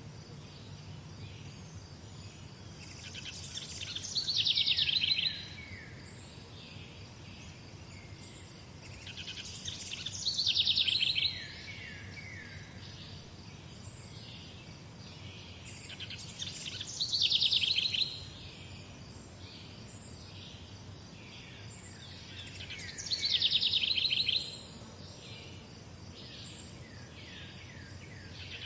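A songbird singing the same short song four times, about every six to seven seconds. Each song is a fast trill of notes that slides down in pitch, over a faint steady low background hum.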